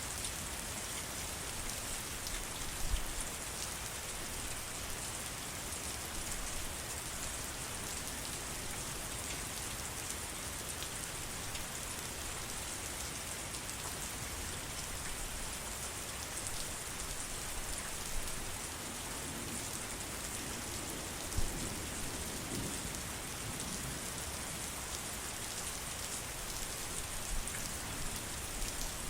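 Steady rain falling, an even hiss of many drops pattering on surfaces, with a few heavier drops ticking now and then.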